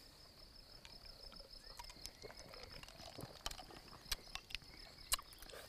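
Faint, steady high chirring of crickets or other insects, with scattered soft clicks and ticks.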